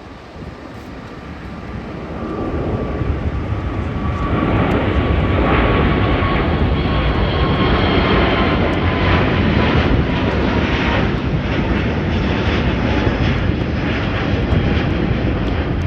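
Jet airliner taking off: the engine noise builds over the first few seconds and then holds loud, with a whining tone that slowly falls in pitch.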